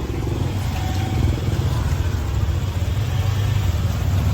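Busy street traffic, mostly motorbikes with some cars, running past in a steady low engine rumble that swells slightly.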